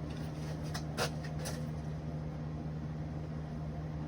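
A steady low mechanical hum, with a few light clicks about a second in.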